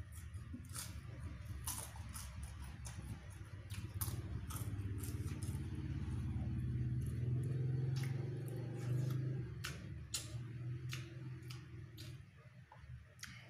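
Wet mouth clicks and smacks of a man eating the last bits of a meal with his fingers and licking them. Under them runs a low engine hum that builds to its loudest about eight seconds in and then fades away.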